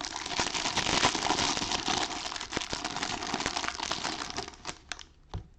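A trading-card pack wrapper crinkling as it is torn open and handled, a dense crackle of small clicks that thins out and fades near the end.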